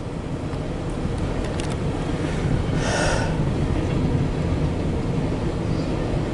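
Empty coal hopper cars of a freight train rolling past with a steady rumble, with a brief louder hiss-like burst about three seconds in.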